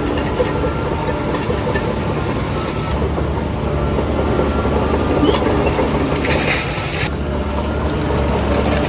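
Crawler bulldozer's diesel engine running steadily while its steel tracks clank and rattle. A short hiss comes about six seconds in.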